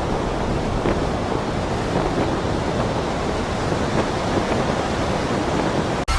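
Steady roar of strong storm wind buffeting the microphone, which cuts off abruptly just before the end.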